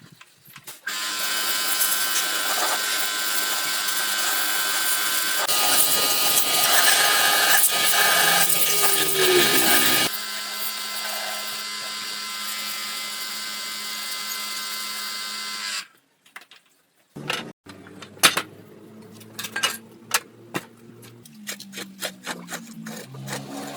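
An electric power tool runs steadily for about fifteen seconds, then stops abruptly; scattered light clicks and knocks follow.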